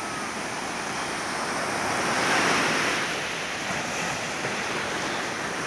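Sea waves washing ashore, a steady rush that swells and falls back, with wind on the microphone.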